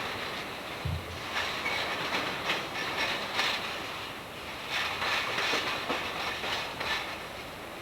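Freight train cars rolling past, their wheels clicking and clattering irregularly over the rail joints.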